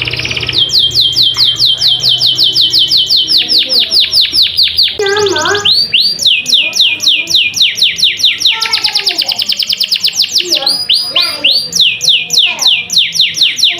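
Domestic canary singing a loud, continuous song: fast trills of repeated downward-sweeping high notes, about six a second, broken a few times by short lower warbling phrases.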